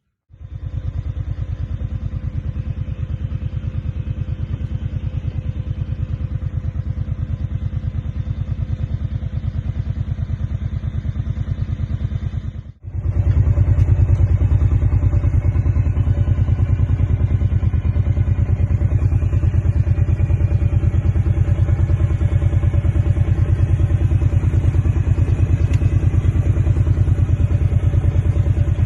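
Side-by-side utility vehicle's engine running steadily while riding. The sound cuts out for an instant about halfway through and comes back a little louder.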